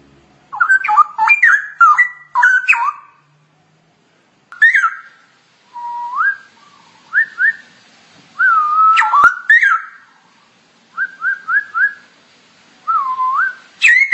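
Straw-headed bulbul (cucak rowo) singing: a run of loud, clear whistled phrases of notes that glide up and down, coming in bursts with short pauses between them. A single sharp click falls a little past the middle.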